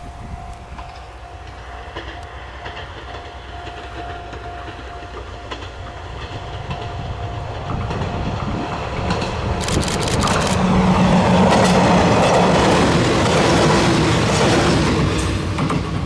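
Electric train approaching along the track and passing close by. It builds from a distant hum to a loud rush of wheels and motors about ten seconds in, with a quick run of wheel clicks over rail joints as it arrives, then fades slightly near the end.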